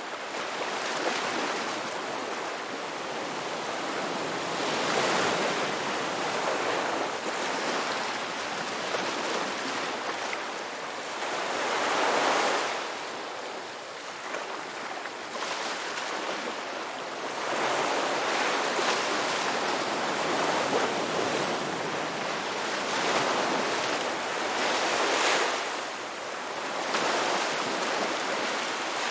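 Ocean surf breaking on a beach: a continuous rush of waves that swells and eases every few seconds, the loudest wave about twelve seconds in.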